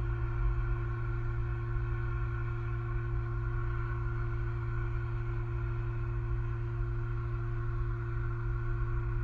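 Steady hum of several constant tones over a low rumble, unchanging throughout.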